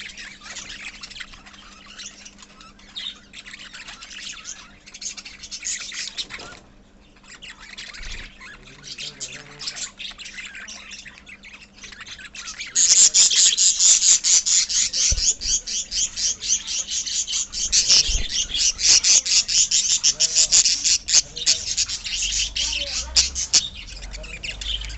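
A colony of lovebirds and budgies chirping and chattering together, a dense stream of rapid high chirps that grows much louder about halfway through.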